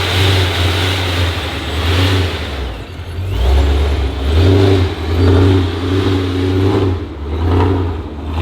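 Car engine revving, its loudness swelling and dropping several times in the second half.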